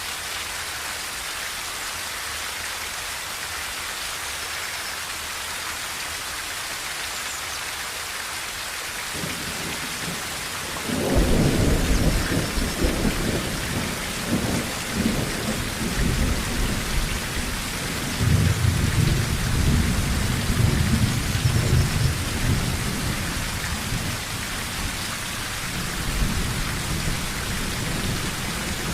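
Steady rain drumming on a tin roof. A long roll of thunder comes in about a third of the way through and rumbles on, swelling again a few times.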